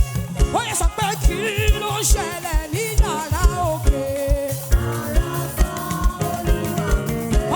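Live gospel praise music: singing voices over a band with a steady kick-drum beat, about two beats a second.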